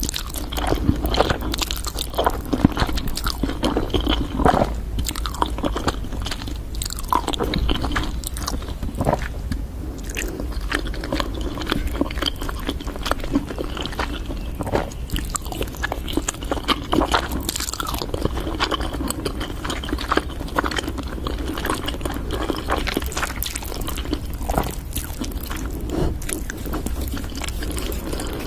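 A person eating crunchy food: repeated bites and chewing with irregular crackles.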